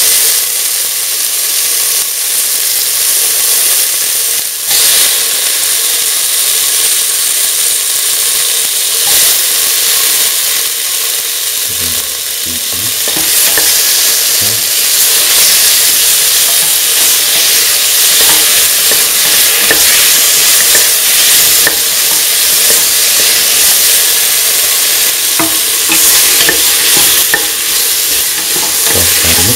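Tomato pieces, shallots and garlic sizzling in hot oil in a stainless steel pan, a loud steady frying hiss. From about halfway through, a spatula stirring and scraping against the pan joins the sizzle.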